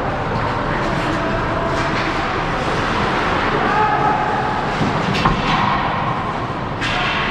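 Hockey game on the rink: a steady wash of rink noise with faint distant voices, broken by a sharp knock about five seconds in and another sudden hit near the end.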